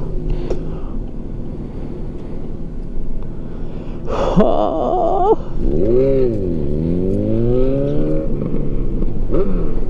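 A vehicle engine running steadily, then revving about four seconds in, its pitch wavering, dropping and climbing again over the next few seconds.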